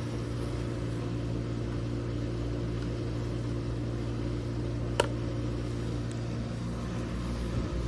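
Steady low hum of background machinery or electrical equipment, with one sharp click about five seconds in.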